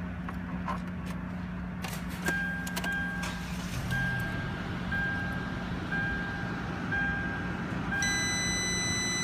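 Car engine idling steadily, heard inside the cabin. About two seconds in come a few clicks, then a short high electronic beep about once a second, which near the end turns into a continuous high buzzing tone.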